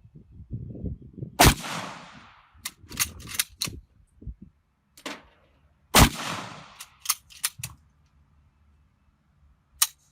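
Two rifle shots about four and a half seconds apart from a bolt-action rifle, each ringing out briefly. Between and after the shots come several short, sharp metallic clicks, fitting the bolt being worked to chamber the next round.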